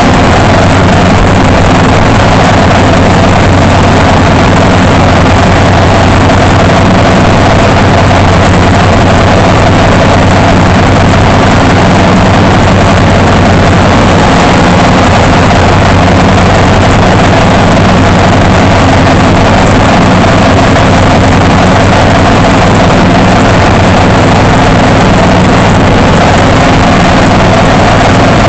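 Zero-turn mower engine running loud and steady.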